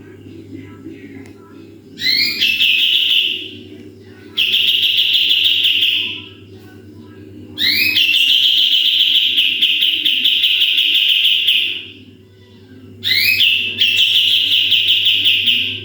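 Kapas tembak bird singing in four loud bursts of rapid trilled notes, each opening with quick rising notes; the longest burst runs about four seconds. A steady low hum runs underneath.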